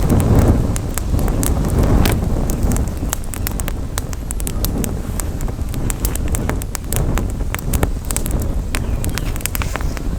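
Wood campfire crackling, with many sharp, irregular pops and snaps, over a steady low rumble of wind on the microphone that is strongest in the first couple of seconds.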